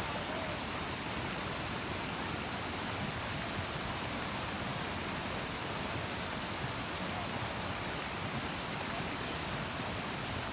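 Water of a waterfall rushing, a steady, even noise.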